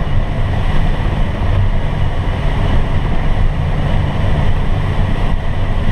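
Steady rush of air past a glider's cockpit in flight, a low, even noise with no engine, with wind buffeting on the microphone.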